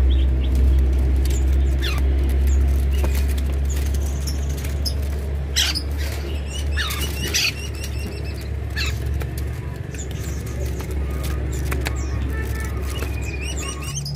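Small birds giving short scattered chirps over a steady low rumble.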